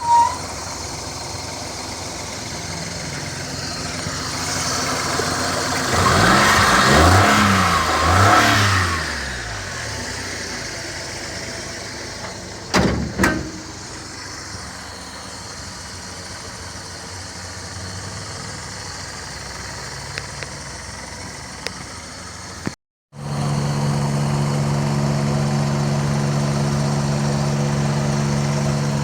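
Suzuki Mehran's three-cylinder petrol engine idling, blipped twice about six to nine seconds in, the pitch rising and falling each time. Two sharp knocks come about halfway through. After a break, the engine idles louder and steadier with a deep hum.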